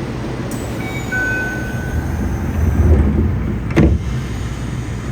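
Yokohama Blue Line 3000N subway train running, a steady rumble with brief high whining tones from its Mitsubishi IGBT-VVVF traction equipment in the first two seconds. The rumble swells around three seconds in, and a single sharp knock follows just before four seconds.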